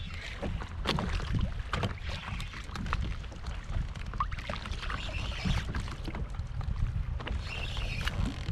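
Wind buffeting the microphone on a kayak, a steady low rumble with a hiss, with scattered short clicks and knocks from the rod and reel being worked as a hooked fish is reeled in.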